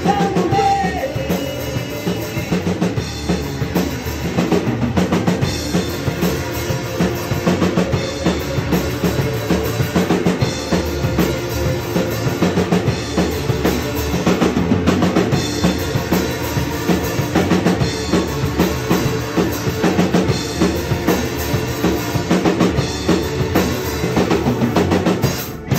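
Live rock band playing the instrumental close of the song, with drum kit, bass and electric guitars, the drums hitting hard and steadily, then stopping abruptly on a final hit near the end.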